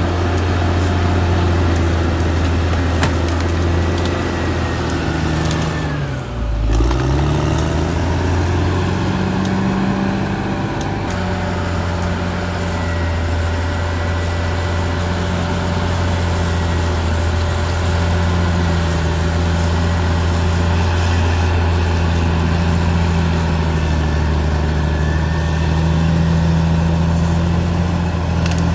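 Caterpillar D6R XL bulldozer's diesel engine running steadily under working load, its pitch dipping briefly and coming back up about six seconds in, with a faint high whine above the engine.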